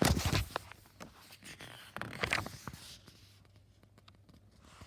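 Paper rustling and crackling as a book page is turned and handled, in two short spells about two seconds apart, with a faint steady electrical hum underneath.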